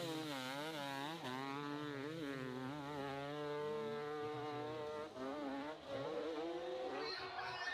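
Motorcycle engine revving hard with a buzzing note whose pitch rises and falls again and again as the throttle is worked, with a steady lower hum under it for the first few seconds.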